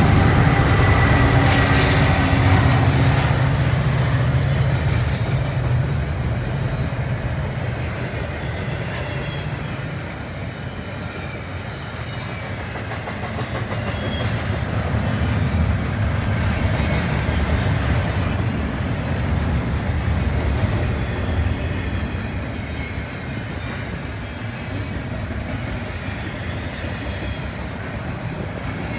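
CN freight train passing: the drone of its trailing diesel locomotives fades over the first few seconds. After that comes the steady rumble and clatter of double-stack intermodal well cars rolling over the rails.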